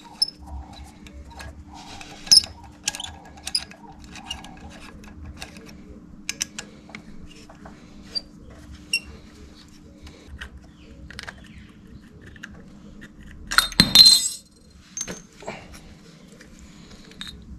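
Scattered small metal clicks and clinks as the pad pins and worn brake pads are worked out of a motorcycle's front brake caliper, with one louder clatter near the end. A faint steady hum runs underneath.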